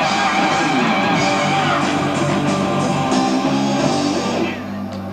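Italian progressive rock band playing live, heard on an amateur tape: electric guitar over bass, keyboards and drums with sustained chords. The music thins out and drops a little in level near the end as the song closes.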